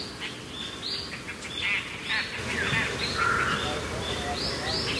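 Birds chirping in short repeated calls, with a quick run of four chirps near the end.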